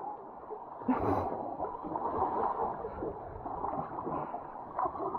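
Water gurgling and splashing around a kayak, with one sharper splash about a second in.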